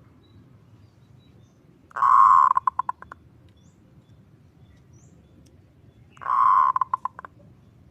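Zebra dove (perkutut) calling twice, about four seconds apart. Each call is a loud, unbroken rolling note that breaks up into a quick run of short pulses and fades out. A low steady hiss lies underneath.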